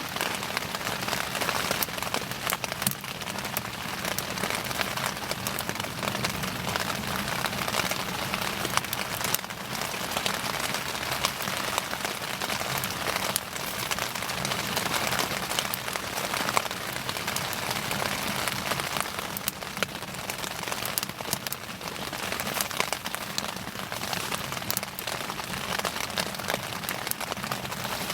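Wood bonfire burning: a steady hiss of fine crackling with frequent sharp pops.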